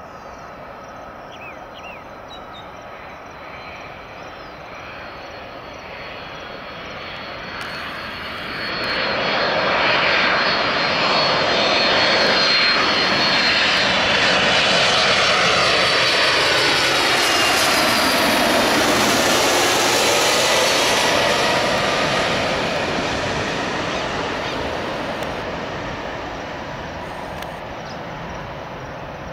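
Boeing 767 twin-engine jetliner passing close by: its engine noise swells about eight seconds in, stays loud for some twelve seconds with a whine that slides down in pitch, then fades away.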